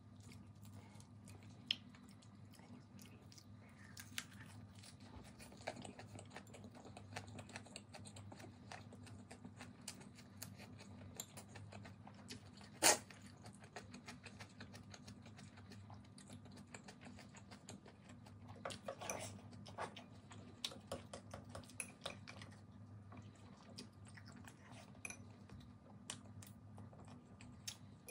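Close-miked chewing of a mouthful of lettuce wrap with boiled pork, heard as many small irregular clicks, with a cluster of them about 19 seconds in and one sharp louder click about 13 seconds in. A low steady hum lies underneath.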